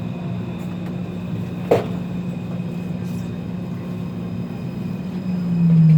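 Taipei Metro C341 electric train running: a steady low rumble with a thin steady whine over it. There is one sharp click just under two seconds in. Near the end a louder low hum rises and then steps down in pitch.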